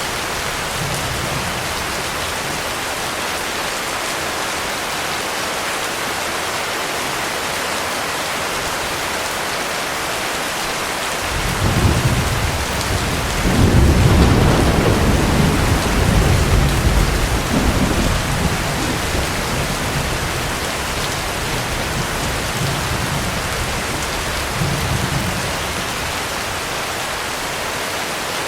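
Heavy rain falling steadily. Partway through, a long roll of thunder rumbles in, loudest a couple of seconds later, rolls on for several seconds and dies away, with a smaller rumble near the end.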